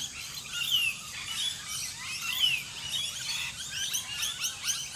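Several wild birds singing and calling at once, with overlapping chirps and quick downward-sliding whistles and a fast run of repeated high notes in the second half.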